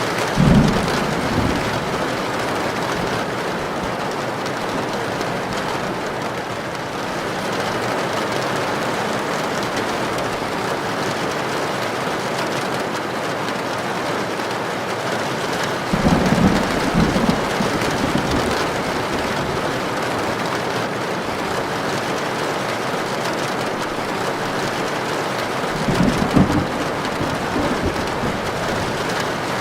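Heavy rain drumming steadily on a tin roof, with three short low thunder rumbles: one about half a second in, one just past the middle, and one near the end.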